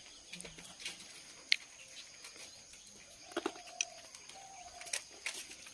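Faint bird calls, two short steady coos about a second apart in the second half, over quiet background with a sharp click about one and a half seconds in.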